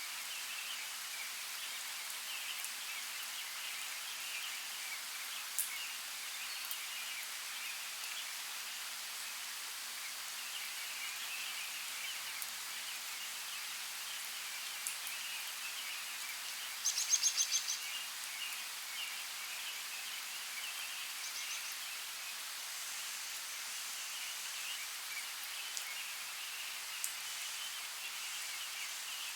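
Forest ambience with a steady wash of running creek water and faint, continuous bird chatter. A little past halfway, a bird gives a short, rapid trill of repeated high notes, the loudest sound, and there are a few faint isolated clicks.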